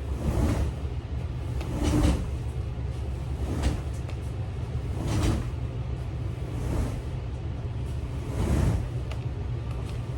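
Soft bumps and swishes of things being handled and moved, about every second and a half, over a steady low rumble.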